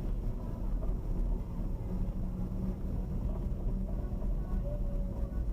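Steady low rumble of a car on the move, engine and road noise as picked up by a dashcam inside the cabin.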